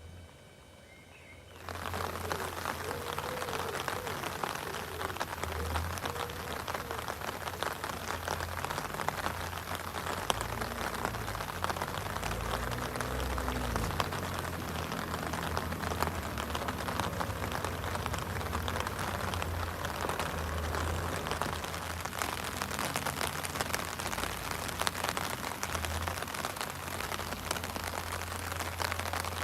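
Steady rain pattering on a fishing umbrella, a dense run of small drops that starts abruptly about two seconds in.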